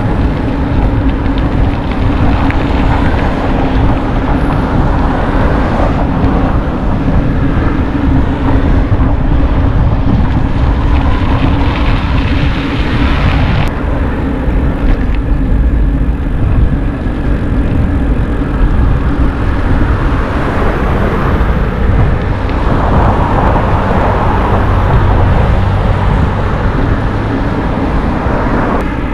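Steady loud wind rumble on the microphone with road noise while riding a bicycle; the upper hiss thins suddenly about halfway through.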